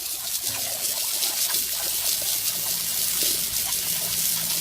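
Water running steadily, a continuous splashing trickle as from a tap.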